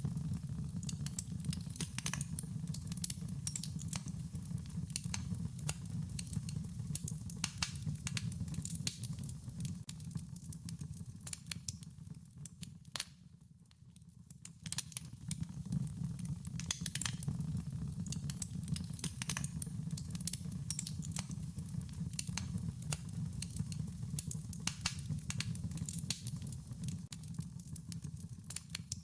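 Wood fire crackling: a dense run of sharp pops and snaps over a low steady rumble, thinning out and dropping in level briefly about halfway through.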